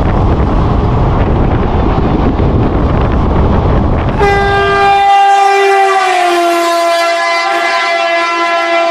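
Train running at speed, a loud steady rush and rumble; about four seconds in this gives way to a train horn, one long held note that drops slightly in pitch about two seconds later.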